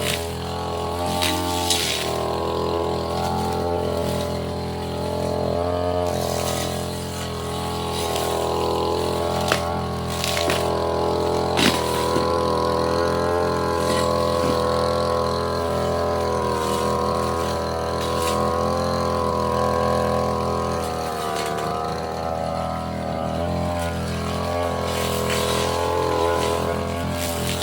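Petrol brush cutter engine running at high speed, its pitch rising and falling as the blade works through undergrowth, with a few sharp knocks along the way.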